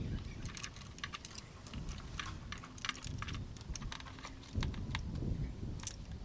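Irregular light clicks and taps, a few to several a second, like small hard parts being handled, over a low rumble.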